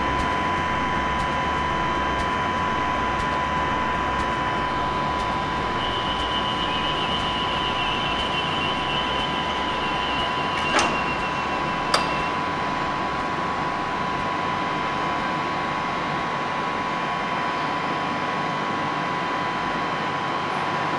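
CRRC multiple-unit train standing at the platform with its onboard equipment running: a steady hum with a constant whine. A higher wavering tone sounds for several seconds midway, and two sharp clicks come about a second apart near the middle.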